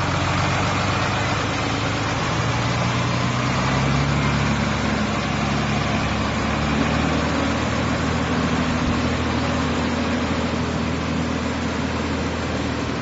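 Sitrak heavy-truck tractor unit's engine idling steadily, with a slight change in pitch about three to four seconds in.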